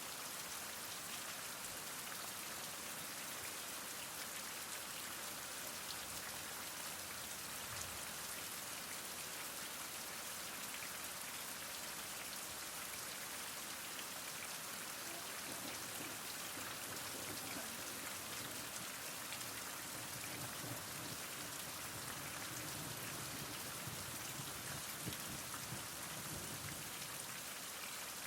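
Heavy rain falling steadily, an even, unbroken hiss of many drops striking surfaces.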